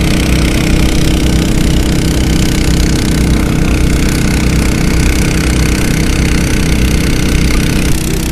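Small gasoline engines of portable 3-inch discharge water pumps running steadily. Near the end the sound changes and gets slightly quieter.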